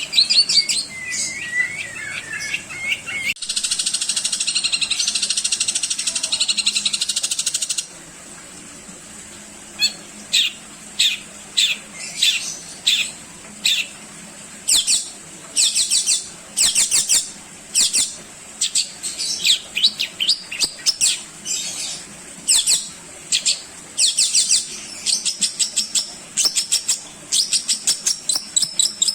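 Long-tailed shrike (cendet) singing a varied song full of mimicked phrases: a few warbling phrases, then about four seconds of dense chattering, then a long run of short, sharp repeated notes that come quicker near the end.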